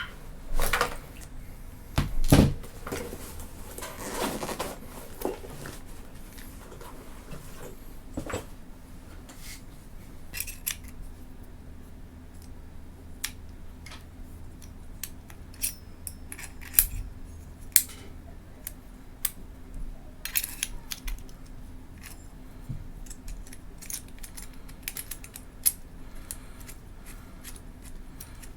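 Small metal and plastic camera-mount parts being handled and fitted together: scattered clicks, clinks and taps. A few louder knocks come in the first few seconds, with some rustling about four seconds in, then sparser sharp clicks.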